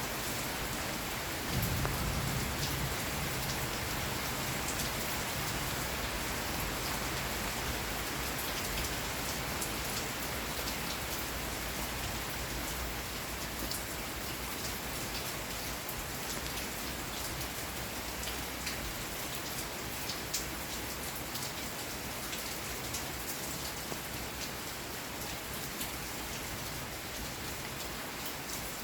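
Steady rain falling, with individual drops ticking through it. About a second and a half in, a low rumble of thunder swells and fades away over several seconds.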